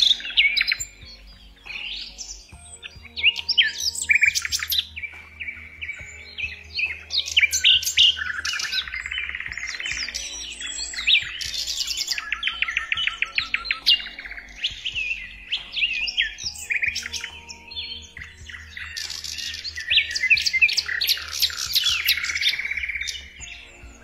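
Several small birds chirping and singing at once, with quick repeated chirps and rapid trills overlapping throughout.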